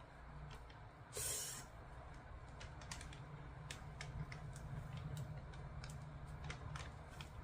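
Scattered light clicks and crackles from hands working a sticky adhesive sheet. About a second in there is one brief, louder rustle.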